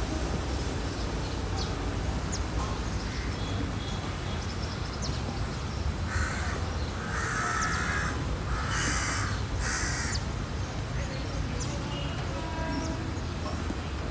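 Four harsh cawing bird calls, about a second apart, starting about six seconds in, over a steady low rumble.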